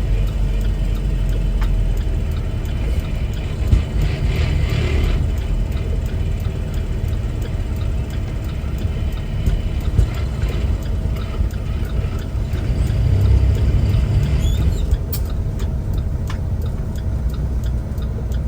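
Semi-truck's diesel engine and road noise heard inside the cab: a steady low rumble while driving.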